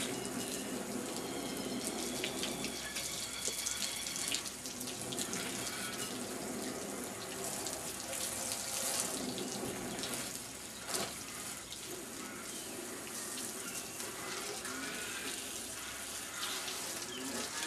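Water running and splashing steadily from a hose during a car wash.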